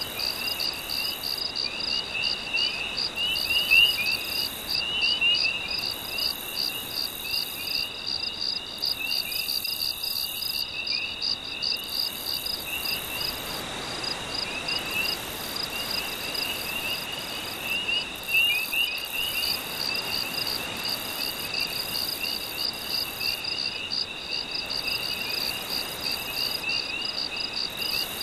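Night chorus of insects and frogs: a fast, even trilling, a steady high whine and many short chirping calls, over a soft wash of gentle sea waves that swells and fades.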